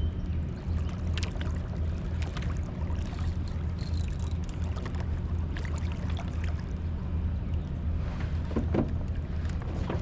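Boat motor running steadily with a constant low hum, over water noise, with a few faint clicks.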